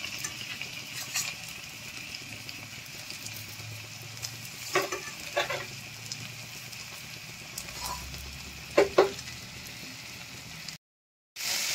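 Food frying with a steady sizzle in a metal wok, with a metal spatula clinking and scraping against the pan a few times, two sharp strikes close together about nine seconds in.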